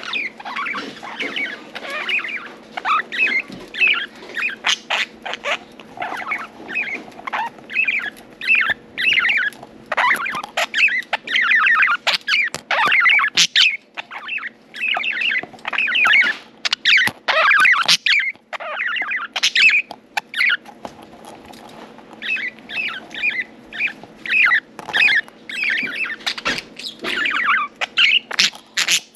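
Budgerigars chirping and warbling continuously, with many quick overlapping chirps and sharp clicks throughout, as the birds eat millet.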